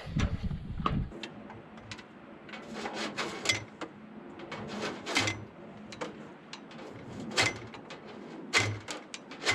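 Scattered light clicks, taps and scrapes of hands handling parts and tools, with a few sharper knocks in the second half.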